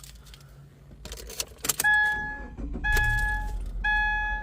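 Car keys jangle and click, then the 2016 Subaru Impreza's warning chime starts up: a two-tone ding repeating about once a second.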